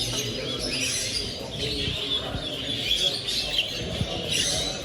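Many small caged show birds chirping and calling at once, a dense overlapping chatter of short high notes, over a low background murmur.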